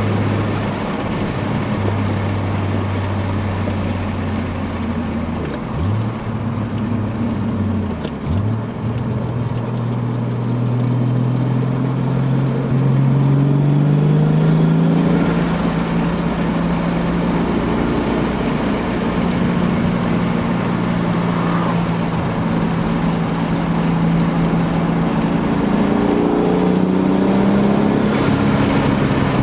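1992 Toyota Supra Mk3's 7M-GTE 3.0-litre turbocharged inline-six, through an HKS Silent Hi-Power exhaust, running under way. The engine note dips sharply twice, about six and eight seconds in, then climbs steadily as the car accelerates, holds, and rises and drops again near the end.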